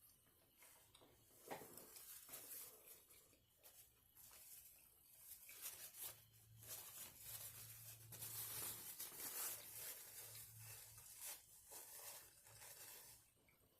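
Faint eating sounds close to the microphone: a food wrapper crinkling and rustling, with many small clicks.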